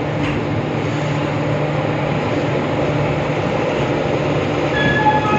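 A passenger train rolling slowly, heard from the doorway of one of its coaches: a steady rumble with a low hum. A few brief high tones come near the end.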